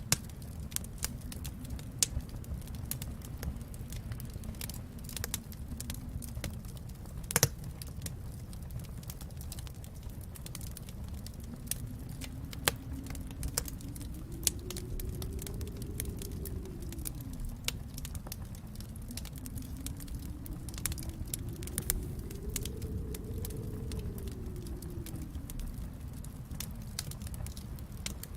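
Wood fire crackling and popping in a fireplace over a low rumble, with snowstorm wind moaning, rising and falling twice in long swells.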